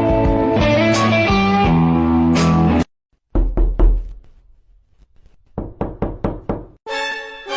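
A string of short meme sound clips. Guitar music cuts off suddenly, and after a brief silence come a few loud knocks. A quick run of short plucked notes follows, then violin music starts near the end.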